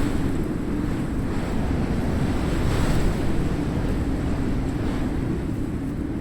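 Ocean surf breaking and washing up the sand, with wind buffeting the microphone. The wash swells to its loudest about three seconds in.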